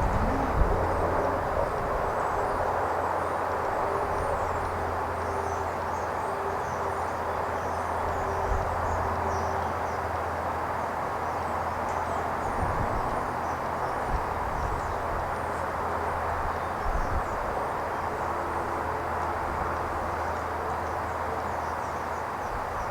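Steady outdoor rumble and hiss with a low hum underneath, with a few knocks in the first second or two.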